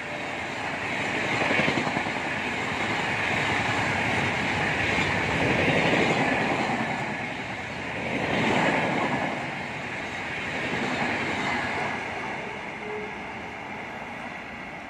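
Passenger express train running through the station at speed: a continuous rumble and clatter of coach wheels on rail that swells and eases several times as the coaches pass close by, dying away over the last few seconds as the train recedes.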